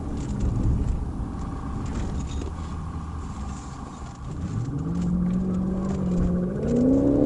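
Patrol car's engine and road rumble, heard from inside the car. The engine note climbs steadily about four and a half seconds in, holds, and climbs again near the end as the car accelerates hard.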